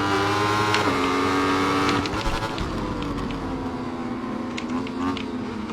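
Aprilia motorcycle engine running under throttle with a steady note that steps down slightly in pitch twice. About two seconds in it drops off and goes quieter, the pitch then sliding slowly down as the throttle eases off.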